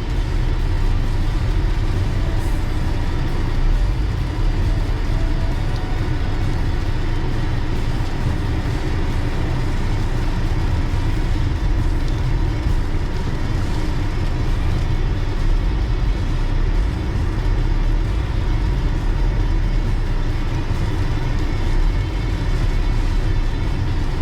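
Car driving: a steady low rumble of engine and road noise that holds even throughout.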